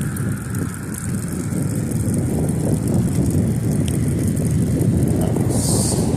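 Wind buffeting the microphone on a moving bicycle, mixed with road traffic noise, swelling through the middle. A brief high hiss comes near the end.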